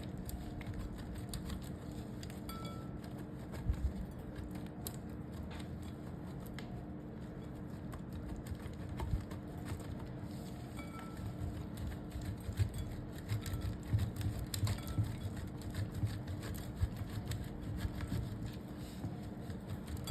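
A blade scraping and shredding a bar of soap, giving a run of small, irregular crisp crackles and scrapes that grow busier with soft low thuds in the second half, over a steady low hum.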